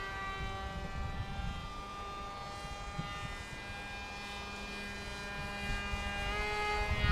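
Radio-controlled foam model plane's motor and propeller whining in flight, the pitch slowly falling, then rising again with a step up about six seconds in. A low rumble lies underneath.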